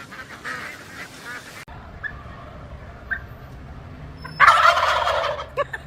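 Turkeys gobbling: a loud burst of gobbling starts about four and a half seconds in and lasts about a second and a half, after a quieter stretch with a couple of faint chirps.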